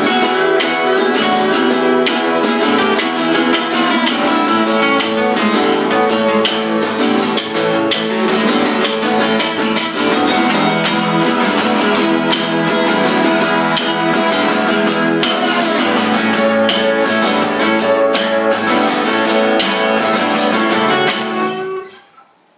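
Acoustic band playing an instrumental passage: strummed acoustic guitar over a steady beat of sharp, bright hits. The song cuts off abruptly near the end.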